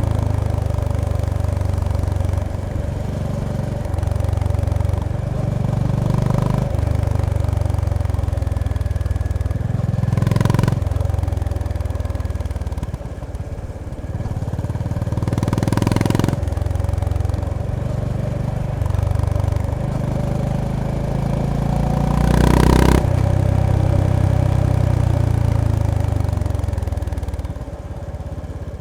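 Honda GB350S (CB350RS) single-cylinder engine running under way, its engine speed rising and falling in steps as it is ridden through the gears. Three short rushes of noise break in at about ten, sixteen and twenty-three seconds in.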